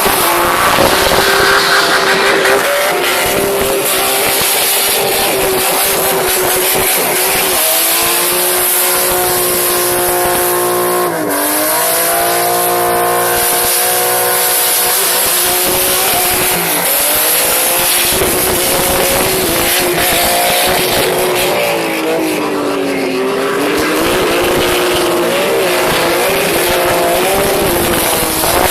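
A car engine held at high revs while drifting on a wet road. Its pitch holds steady, then swings down and back up a few times, most clearly about eleven seconds in and again near twenty-three seconds. A steady hiss runs underneath.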